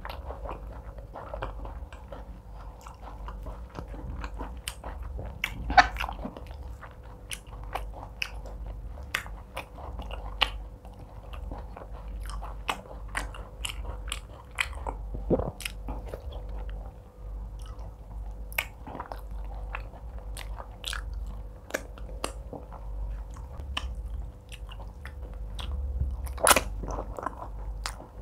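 Close-miked chewing and mouth sounds of a person eating egusi soup and fufu by hand: steady wet chewing and lip smacks with frequent sharp clicks. The loudest clicks come about six seconds in and near the end.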